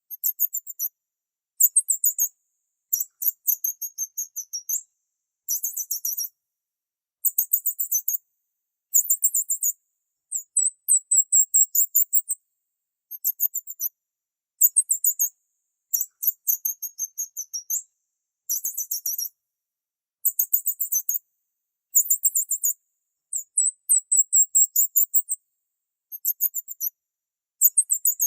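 High-pitched bird chirping: quick trills of rapid notes in short bursts, repeated every second or two with brief silent pauses between.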